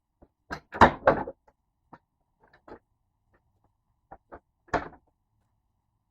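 Pieces of wooden pallet wood knocking and clattering together. A loud cluster of knocks comes about half a second to a second and a half in, followed by a few lighter single knocks and one sharper knock near the end.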